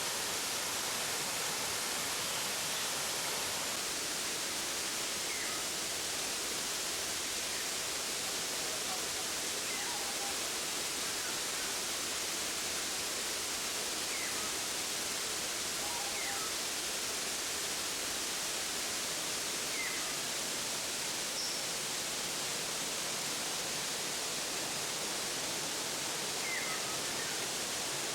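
Waterfall rushing steadily, with a few faint short bird chirps now and then.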